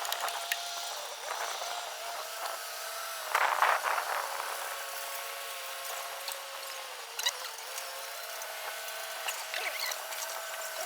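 A steady mechanical whine holding one pitch, with small dips, and a brief louder rattle about three and a half seconds in.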